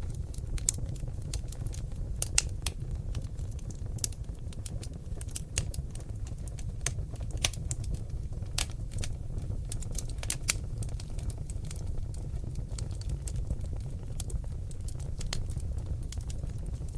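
Seasoned oak logs crackling in a fireplace: irregular sharp pops and snaps, several a second, over the steady low rumble of the flames.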